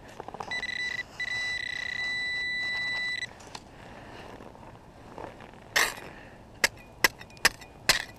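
Metal detector giving a steady high-pitched tone for about three seconds over a strong target that maxes out the signal. Then, from about six seconds in, a digging tool strikes hard-packed ice about five times, sharp knocks roughly half a second apart.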